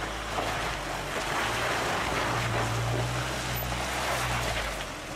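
A four-wheel-drive vehicle's engine pulling up a rocky slope, its low drone swelling from about two seconds in and easing near the end, under a steady rush of wind noise on the microphone.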